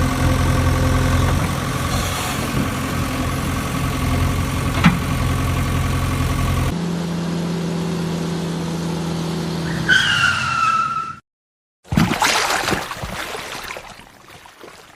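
Edited vehicle sound effects: a steady engine running, cut abruptly to a second engine hum, then a falling tyre screech. After a brief silence comes a loud crash-like hit that dies away over a couple of seconds.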